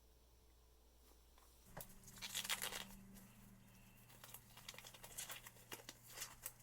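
Dry rustling and scraping: a louder stretch about two seconds in, then a run of short irregular strokes, over a faint low hum.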